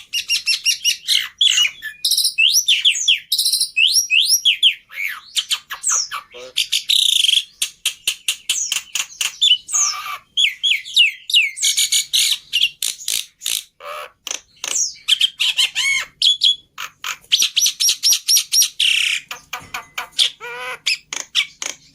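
Black-winged starling (jalak putih) singing a long, varied run of rapid chirps, whistles and harsh squawks with hardly a break.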